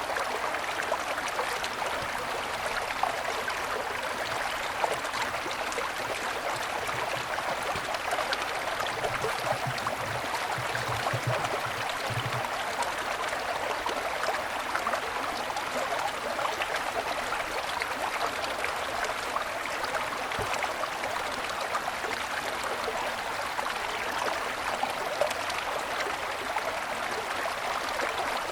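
Snowy mountain forest stream running steadily over stones, a continuous rushing babble with small splashes. A faint low hum is heard briefly in the middle.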